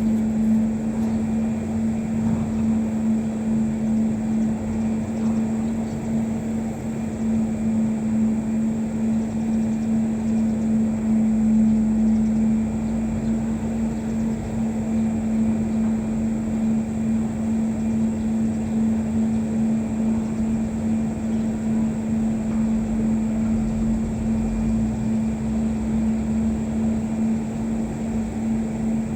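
A steady machine-like drone: one constant low hum over a low rumble, unchanging throughout.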